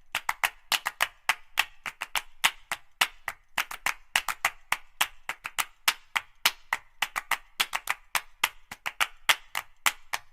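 Percussive background music made of quick, sharp clicks like a wood block and claps, several a second, with no tune over them.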